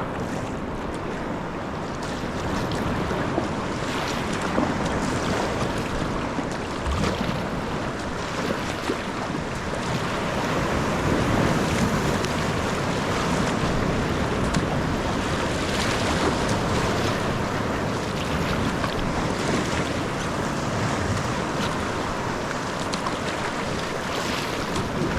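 Sea water washing and splashing around a sea kayak, with steady wind noise on the microphone.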